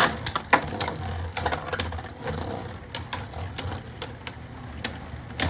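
Two Beyblade Burst spinning tops clashing in a plastic stadium: irregular sharp clicks and clacks over a steady low whir, with a louder clack near the end.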